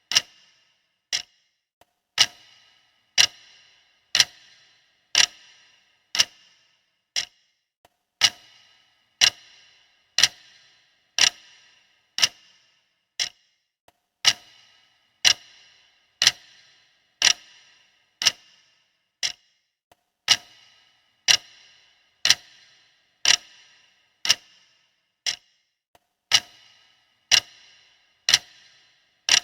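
Clock ticking steadily, about one sharp tick a second, each with a brief ring; now and then a tick is quieter.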